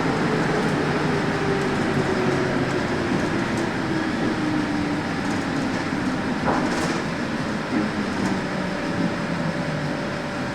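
Santiago Metro NS-74 rubber-tyred train running, its motor whine falling slowly in pitch as it slows, over steady running noise. A short knock comes about six and a half seconds in.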